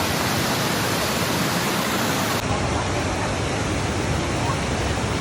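Steady rushing noise of a large waterfall's falling water, with an abrupt change in tone about halfway through.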